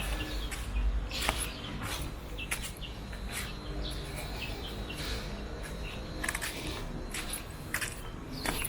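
Outdoor street ambience: small birds chirping now and then over irregular short scuffs and clicks, with a faint steady high whine like an insect.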